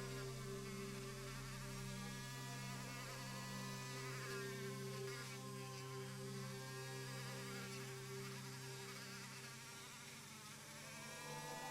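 Small electric rotary tool spinning a wire brush to polish metal parts: a steady motor whine whose higher tones waver in pitch as the brush works. It dips a little near the end, then picks up again.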